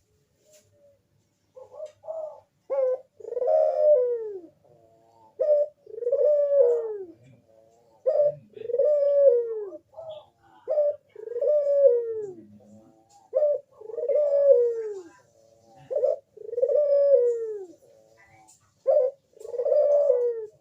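Crossbred puter (Barbary dove) cooing in a repeated call. Each call is a short note followed by a long coo that falls in pitch. It comes seven times, about every two and a half seconds, starting about a second and a half in.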